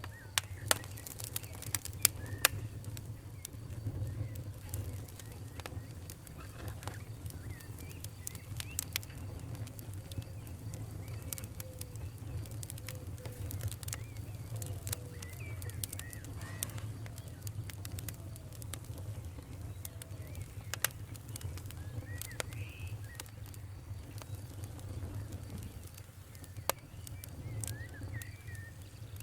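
Wood fire burning in a fireplace: a steady low rumble of flames with irregular sharp crackles and pops, the loudest pops in the first few seconds and once about two-thirds through. Faint short chirping whistles come and go under the crackle.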